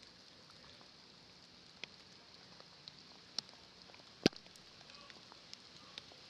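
Light rain falling as a faint steady hiss, with scattered drops tapping on surfaces and one sharper tap a little past four seconds in.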